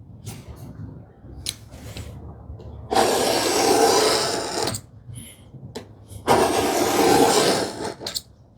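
Two long scraping strokes of a marking knife scoring a line across plywood to stop tear-out, each lasting nearly two seconds, after a few light handling clicks.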